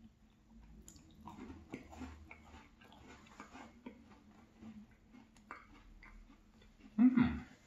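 Close-miked chewing of a yogurt-dipped cookie, with small wet clicks and crackles through the mouthful. A brief, much louder sound comes from the mouth about seven seconds in, dropping in pitch.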